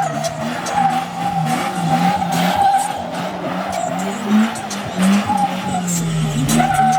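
A car doing a burnout: tires squealing steadily while the engine is held at high revs, its pitch wavering up and down.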